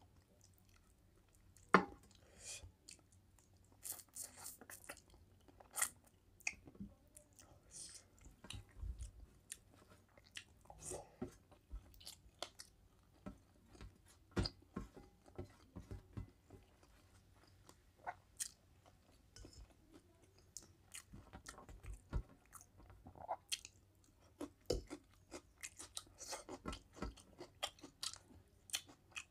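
A person chewing mouthfuls of mutton curry and rice eaten by hand, with many short clicks and smacks of the mouth.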